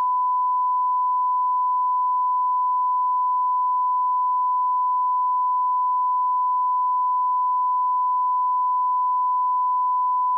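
A 1 kHz sine-wave line-up tone held at one steady pitch and constant level, the −18 dB reference tone used for lining up audio levels.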